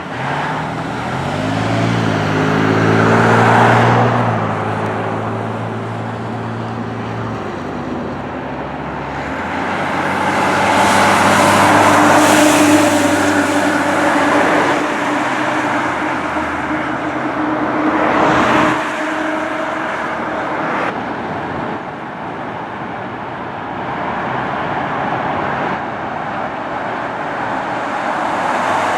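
Road traffic: several vehicles drive past. A heavy engine drones through the first several seconds, and passes swell and fade about four, twelve and eighteen seconds in.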